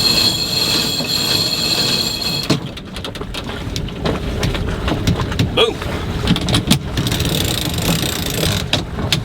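Sail-handling gear working as the headsail is run out: a steady mechanical whine that cuts off about two and a half seconds in, then scattered clicks and knocks, and a fainter whine near the end.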